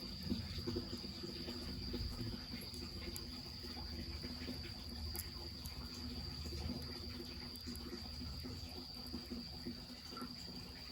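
Night insects, cricket-like, trilling steadily on one high pitch, over a low rush of mountain spring water running into the bath cauldron, with occasional faint crackles from the wood fire.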